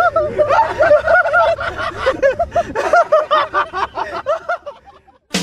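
People laughing in quick, high-pitched snickers that die away about four and a half seconds in. A loud burst of rock music with drums cuts in at the very end.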